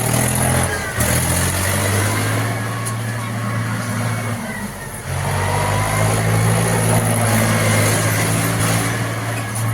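Tractor engine running steadily, driving a thresher that separates grain from husk. Its hum fades about four seconds in and picks up again about a second later.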